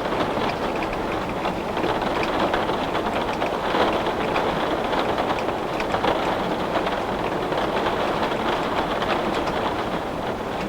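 Heavy rain on window glass: a steady, dense patter with many small drop ticks running through it.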